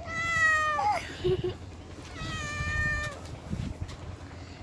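Domestic cat meowing twice, two long meows about two seconds apart. The first drops in pitch at its end; the second is held steadier.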